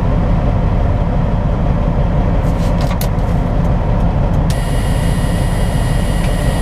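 Semi-truck's diesel engine idling, a steady low rumble heard from inside the cab. A faint high-pitched whine comes in about two-thirds of the way through.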